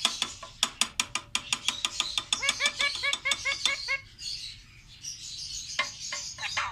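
Pet parrot chattering: a fast run of sharp clicks, then short repeated chirps that bend in pitch, about five a second, falling quiet about four seconds in, with a few more clicks near the end.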